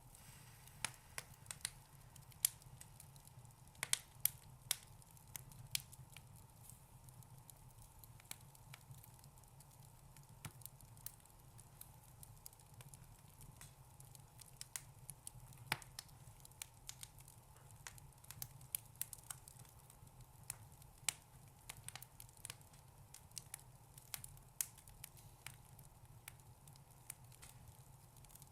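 Fire in a fireplace crackling: irregular sharp pops and snaps, some louder than others, over a low steady hum.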